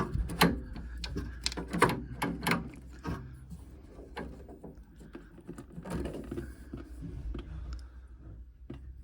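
Sharp clicks and knocks of the plastic hydraulic parts of a Worcester Greenstar combi boiler being pulled and worked free by hand. The clicks come thick and fast for about the first three seconds, then thin out to scattered taps.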